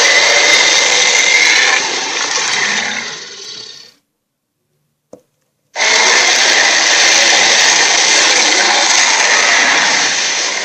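Cartoon monster roar sound effect, a harsh rasping roar with no clear pitch. It fades out a few seconds in, then after a short silence starts abruptly again.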